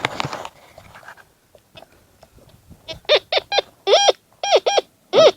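Metal detector signalling a buried metal target: a quick run of about seven short warbling beeps, each rising and falling in pitch, starting about three seconds in as the coil sweeps back and forth over the spot. A brief scraping rustle comes first.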